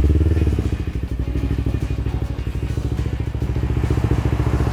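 Kawasaki Ninja motorcycle engine running on the move, a steady pulsing exhaust note that eases back a little under a second in and then holds even.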